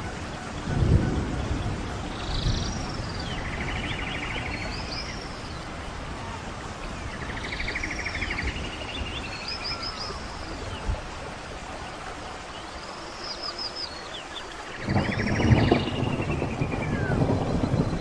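Songbirds singing repeated phrases of curved whistled notes and fast buzzy trills over a steady background hiss, with a low rumble about a second in and a longer one from about fifteen seconds.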